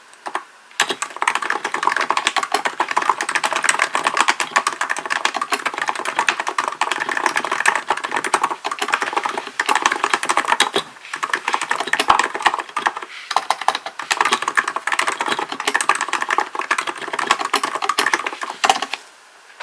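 Continuous fast typing on a Hansung GK898B electro-capacitive keyboard, a dense run of keystrokes with a few short pauses. The typing stops just before the end.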